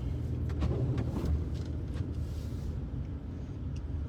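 Steady low road and engine rumble heard from inside a car's cabin as it drives slowly on a snow-covered road, with a few light clicks in the first second or so.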